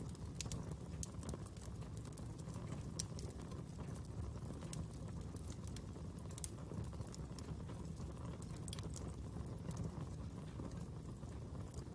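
Fire crackling: irregular sharp pops and snaps over a steady low rumble of the burning.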